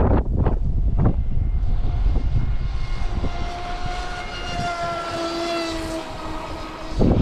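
Electric RC speedboat's motor and propeller whining at speed, a high steady whine whose pitch drifts slowly down as the boat runs. Heavy wind buffeting on the microphone, loudest at the start and again at the very end.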